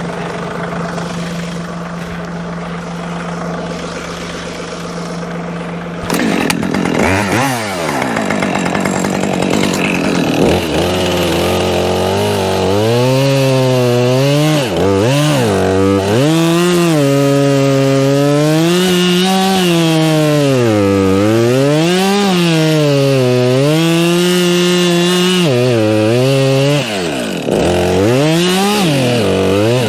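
A small engine runs steadily for about six seconds. Then a two-stroke chainsaw is revved up and cuts wood, its pitch dropping and climbing again and again as the chain bogs in the cut and frees. It eases off briefly near the end.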